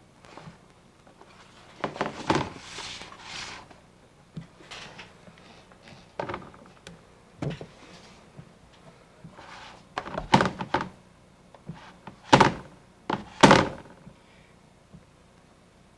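Irregular thumps and knocks with some rustling in between, the two loudest thumps coming near the end about a second apart.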